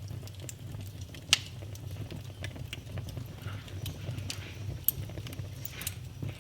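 Wood fire crackling in a fireplace: scattered small snaps, with two sharper pops about a second in and near five seconds, over a steady low rumble.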